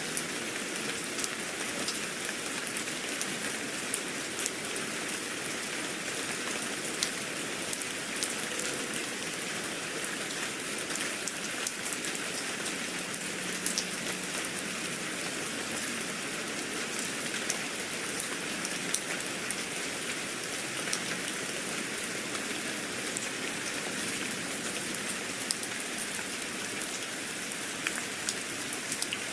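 Steady rain falling, with frequent irregular sharp ticks of individual drops hitting a surface.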